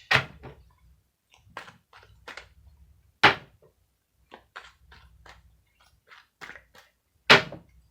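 Tarot cards being handled: a string of short, sharp clicks and taps, with three louder snaps near the start, about three seconds in and near the end.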